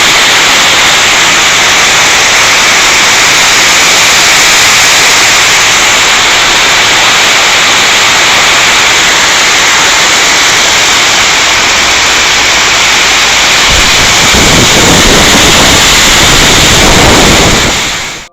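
Loud, steady rushing noise of tropical-storm wind and rain, with heavy low buffeting of the microphone from about two-thirds of the way in. It cuts off suddenly at the end.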